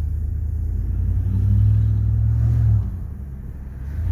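Chevy 5.3-litre V8 exhaust with the muffler deleted, a deep rumble that swells under throttle about a second in, eases off near three seconds, then swells again near the end.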